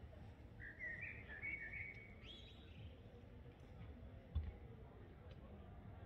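A songbird singing one short warbling phrase of chirps, starting about half a second in and lasting about two seconds, ending on a higher rising note. A low rumble runs underneath, and a single thump about four and a half seconds in is the loudest sound.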